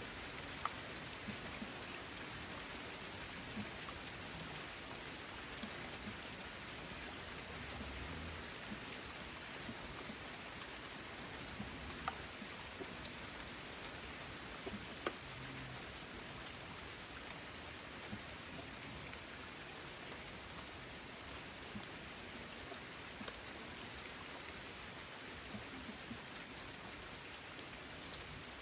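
Steady rain on a corrugated zinc roof, with now and then a sharper single drop ticking out above the patter.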